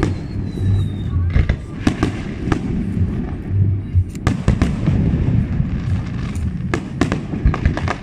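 Fireworks display: aerial shells bursting in a rapid, irregular run of bangs over a steady low rumble.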